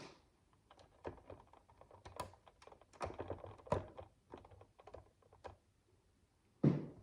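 Plastic micro bricks clicking and clattering in quick irregular clusters as they are handled and pressed together, with one louder, duller knock near the end.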